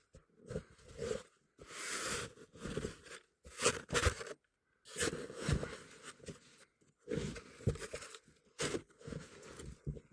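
Hard, icy snow being dug out, crunching and scraping in irregular strokes with short pauses between them.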